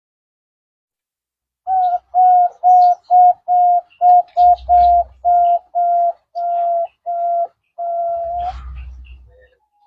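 Zebra dove (perkutut) song: after a short silence, a run of about fourteen brief cooing notes on one steady pitch. The last note is drawn out and fades.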